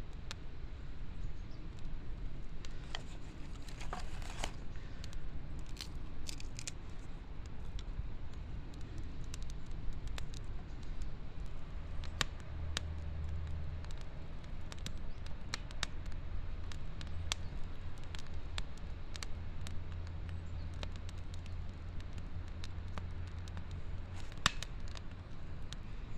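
Wood campfire crackling, with scattered sharp pops and clicks over a low steady rumble.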